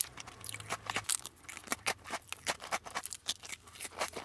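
Close-up chewing of a crisp biscuit: irregular small crunches, several a second.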